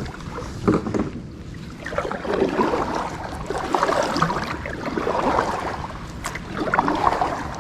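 Kayak paddle strokes and water splashing and sloshing against the hull, irregular and uneven.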